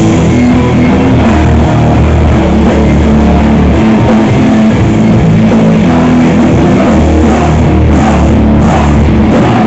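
Rock band playing live, loud, with guitar and a drum kit.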